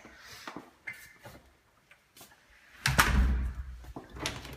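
A door being shut, with a loud thud and low rumble about three seconds in, followed by a smaller knock and light handling clicks.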